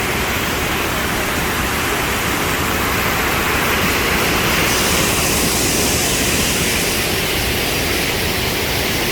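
Mesa Falls waterfall on Idaho's Henrys Fork, a steady, loud rush of falling water running at high spring flow.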